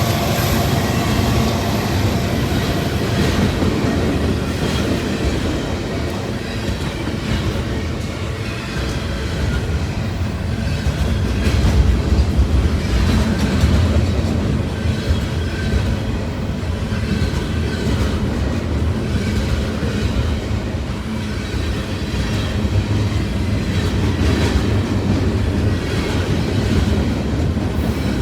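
Norfolk Southern freight cars rolling steadily past, wheels clacking over rail joints under a heavy low rumble, with faint high wheel squeal now and then.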